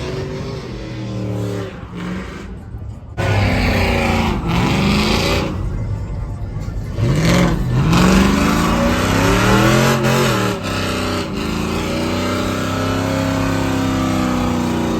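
Car or truck engine revving hard several times, its pitch climbing and dropping with each pull, then held high for several seconds near the end; the sound breaks off abruptly twice as clips change.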